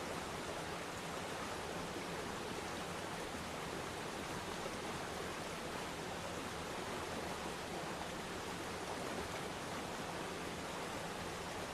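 Waterfall: water falling and splashing, a steady even rush with no breaks.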